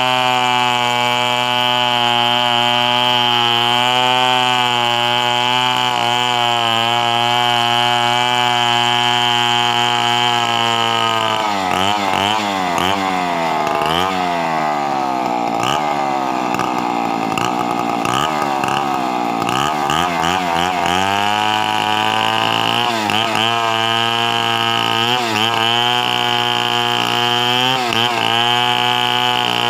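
Two-stroke chainsaw running at full throttle with a high steady whine. From about 12 to 21 seconds the engine note drops and wavers as the saw labours under load in a cut through wood. It then climbs back to full speed, with a few brief dips.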